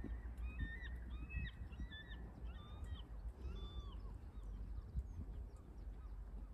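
A bird calling: a quick string of short, arched calls, stopping about four seconds in, over a steady low rumble.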